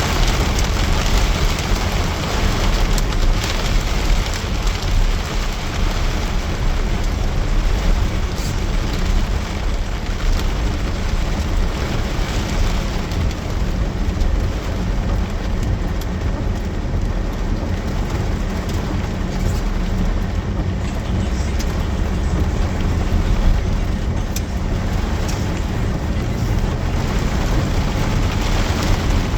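Rain falling steadily and heavily, with scattered drop ticks over a constant low rumble.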